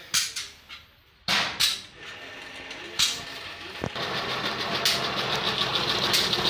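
Several sharp knocks, then a vehicle engine running steadily from about four seconds in.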